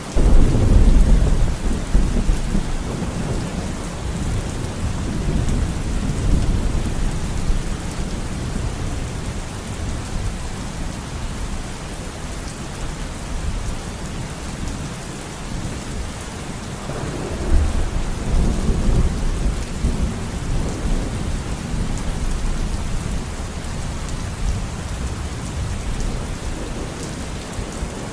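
Steady heavy rain with rolling thunder: a loud thunderclap rumbles in right at the start and fades over several seconds, and a second rumble swells up about 17 seconds in.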